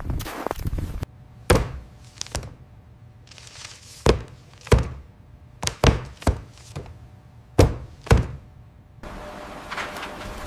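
A run of about ten heavy thuds at irregular intervals, some close together in pairs. About nine seconds in, a steady hum with a faint held tone takes over.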